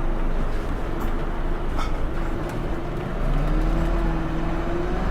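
Scania Omnilink bus engine running under way. About three seconds in the note dips briefly, then rises and holds at a higher pitch as the bus picks up speed.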